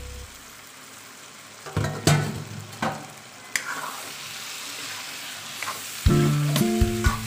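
Mutton pieces sizzling in hot oil with onion and tomato masala in a kadai. A metal spoon scrapes and clinks against the pan several times as the meat is stirred. Background music comes in about six seconds in.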